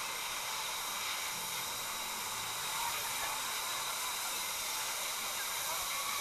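Steady hiss of rushing or falling water, even throughout.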